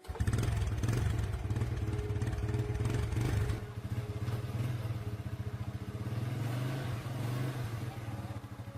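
750cc motorcycle engine running with a fast, even pulsing beat. It cuts in suddenly and is a little louder for the first three and a half seconds, then settles slightly lower.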